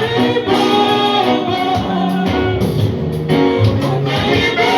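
Live gospel worship music: voices singing a slow song over band accompaniment, with sustained chords and a moving bass line.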